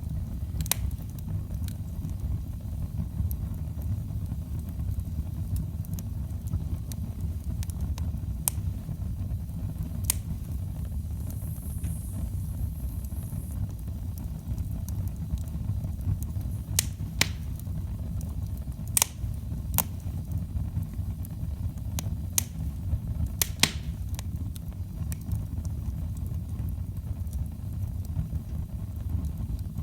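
Wood fire burning in a fireplace: a steady low rumble with scattered sharp crackles and pops, a few louder ones in the second half.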